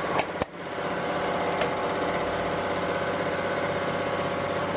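Vehicle engine idling steadily, with a couple of sharp clicks about a quarter second in.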